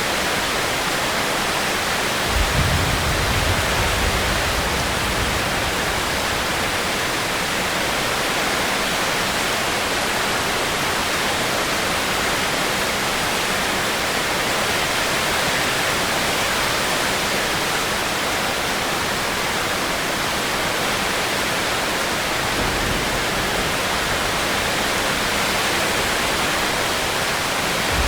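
Steady heavy rain, an even hiss without let-up. A low rumble rises about two seconds in and again about twenty-two seconds in.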